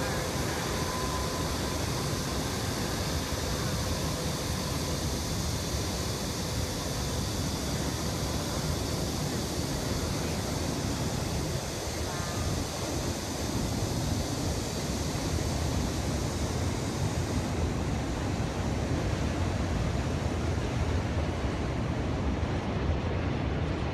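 Steady noise of a long manifest freight train of coal cars rolling across an elevated rail bridge, growing slightly louder about halfway through.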